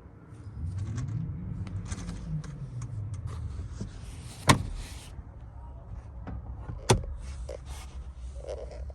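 Toyota 1KZ-TE four-cylinder turbo diesel running. It is revved once, its pitch rising and falling back to idle over about three seconds. Two sharp knocks come a couple of seconds apart.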